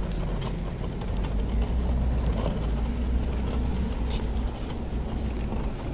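Steady low rumble of city street ambience, with a few faint clicks over it.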